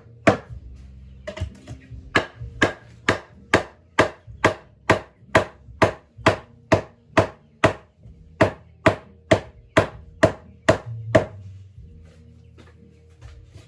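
Steady chopping, about two sharp strokes a second, with a short pause about a second in and another near the middle, stopping well before the end.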